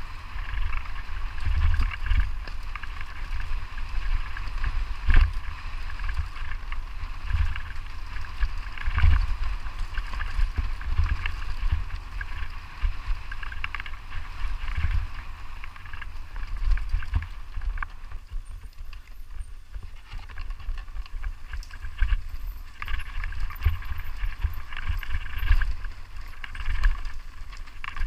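Wind buffeting the microphone in uneven gusts, a deep rumble under a steady higher rushing noise that eases for a few seconds past the middle.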